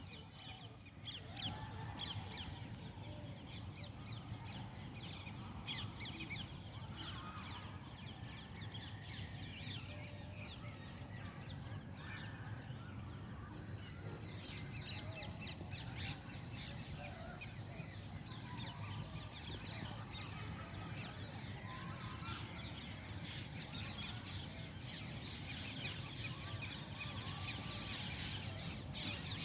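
Many birds calling at once: a dense, continuous chorus of short, overlapping calls and chirps.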